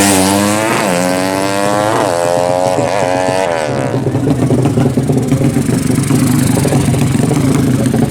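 Racing motorcycle accelerating hard up through the gears: the engine pitch climbs and drops back at each shift, about four times. From about four seconds in it gives way to a rougher, steadier engine sound.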